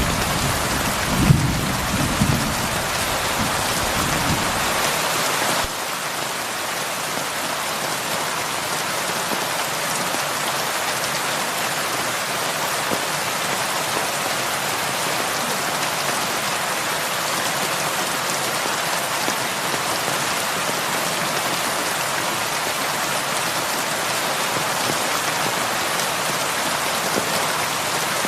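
Heavy rain falling steadily on a roof, an even hiss. A low rumble of thunder dies away over the first few seconds.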